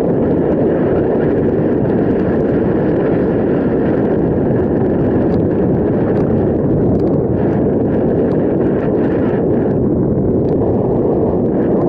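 Wind buffeting the microphone of a camera carried on a moving bicycle: a loud, steady rushing noise.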